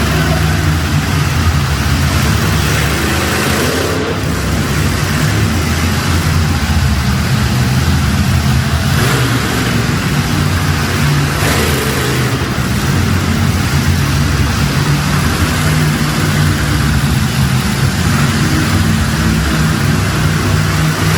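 Monster truck engine running loud, its revs rising and falling.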